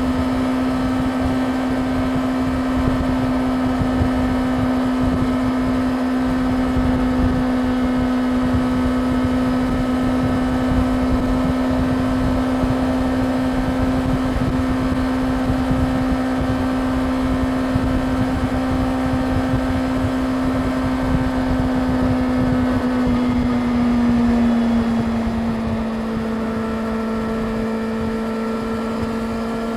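Yamaha YZF-R6's inline-four engine running steadily at highway cruising speed under wind noise; its note drops a little and eases near the end.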